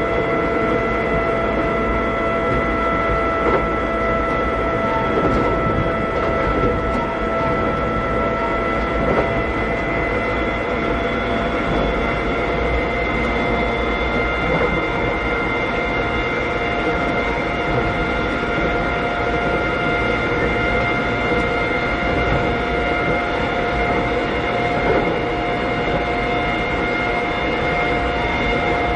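Interior running sound of a Keikyu old 600-series electric train car, with the steady whine of its Toyo Denki traction equipment over wheel and track rumble while cruising at a constant speed. A few rail-joint clacks come through.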